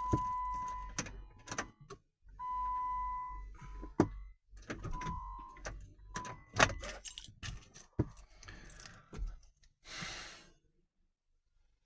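A Chrysler Grand Voyager failing to start: repeated clicks and clunks as the key is tried again and again, while a steady high electronic tone sounds and stops several times. The engine does not turn over, which the owner puts down to a weak battery or a poor connection.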